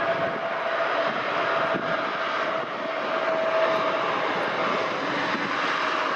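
Jet airliner engines running, a steady loud rushing noise with a held whining tone.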